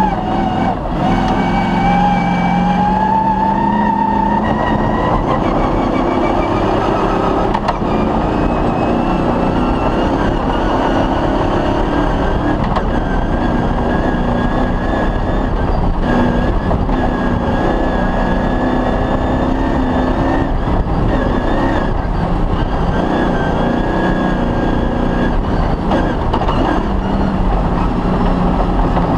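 Off-road rally vehicle's engine running hard at speed. Its pitch climbs over the first few seconds, then keeps rising and falling slightly as the throttle and gears change, over loud tyre and road noise.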